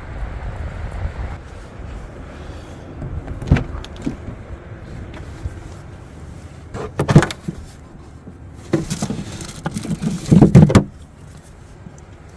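Strong gusting wind rumbling on the microphone, with a few knocks and clunks over it, the loudest about seven seconds in and in a cluster near ten seconds.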